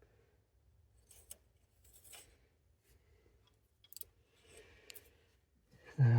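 Faint, scattered clicks and light scrapes of hands handling small metal parts on a diesel engine.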